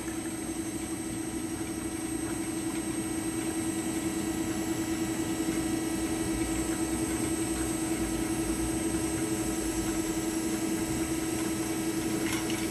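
Kasto Twin A4 horizontal band saw running on automatic through a cut, its blade at about 66 feet a minute: a steady machine hum with one constant tone, growing slightly louder.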